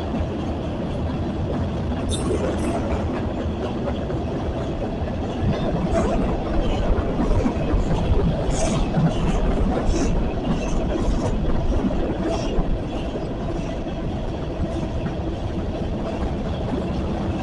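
Long CSX train rolling past, its wheels on the rails making a steady, dense rumble. Brief high-pitched wheel squeals come every few seconds.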